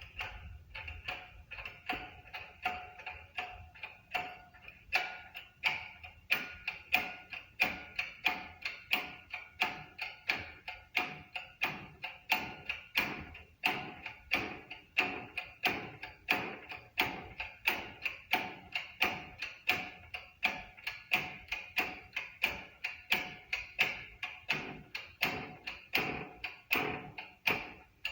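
Steady hammering on metal, about two blows a second, each blow ringing briefly.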